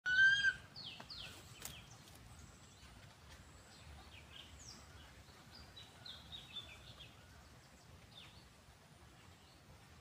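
Wild birds calling: a loud whistled call right at the start, then many short high chirps and down-slurred notes, over a faint low background rumble.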